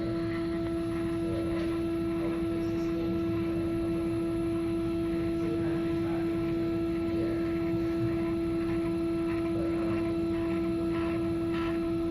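Stepper motor driving a ball-screw linear stage, a steady whine holding one pitch with no change, with a few faint ticks.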